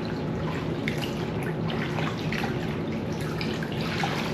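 Tap water running and splashing in a sink, with scattered drips and small clicks, as fridge parts are rinsed.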